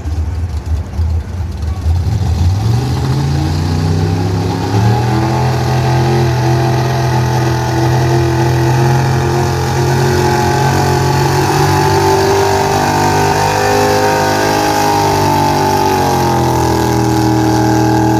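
Gasoline street pickup truck engine under full load pulling a sled: the revs climb over the first few seconds, then hold high and steady.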